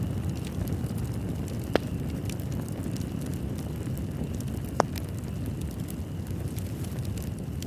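Wood fire burning in a fireplace: a steady low rumble with frequent small crackles and two louder pops of the burning wood, about two and five seconds in.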